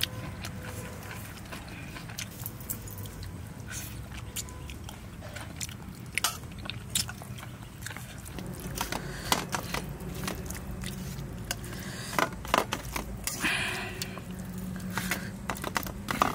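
A person chewing a mouthful of rice and curry, with many short, irregular wet mouth clicks and smacks over a steady low hum.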